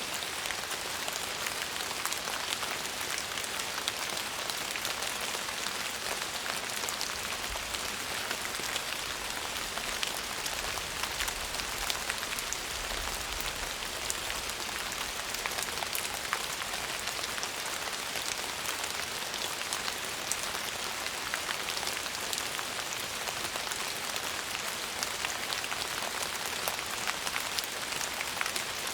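Steady rain falling on a surface: an even hiss with many small drop ticks through it. A faint low rumble comes in about eight seconds in and fades out a few seconds later.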